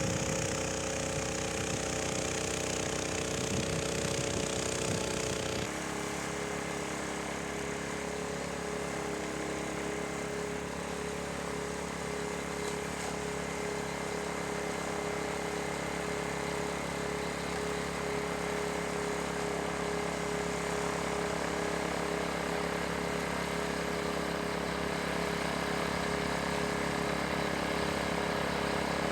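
Yanmar Je-80HE snowblower's engine running steadily, now working properly after a carburettor replacement. About six seconds in its sound changes abruptly and settles on a steady, slightly lower note.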